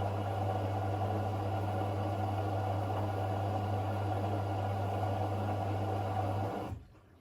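A mains-powered electric machine running steadily with a strong low hum, then switched off and stopping quickly about six and a half seconds in.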